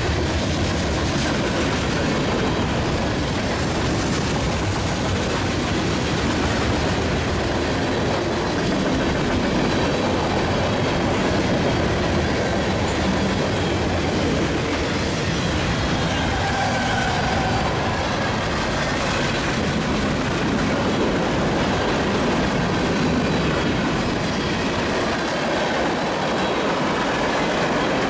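Cars of a Union Pacific mixed freight train rolling steadily past: continuous rumble of steel wheels on rail with clickety-clack over the rail joints.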